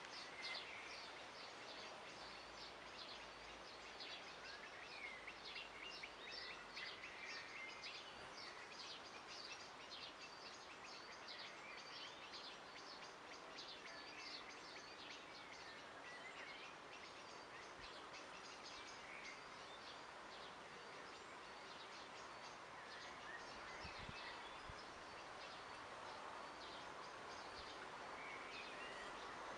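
Faint birds chirping and twittering, with many short quick chirps and scattered warbled phrases, over a steady hiss.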